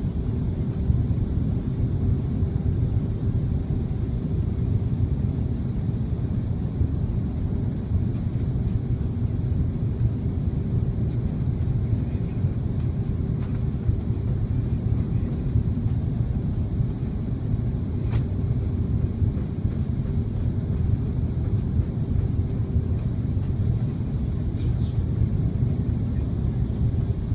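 Steady cabin noise inside an airliner on its landing approach: a constant deep rumble of engines and airflow with a faint steady hum over it.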